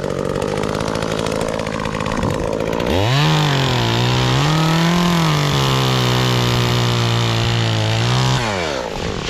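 Gasoline chainsaw running, revved up sharply about three seconds in and held at high speed with some wavering in pitch, then dropping back to idle near the end.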